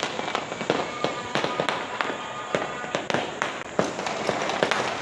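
Fireworks and firecrackers bursting all around, with many irregular overlapping bangs and crackles, some near and some distant, over a constant rumbling haze of further explosions.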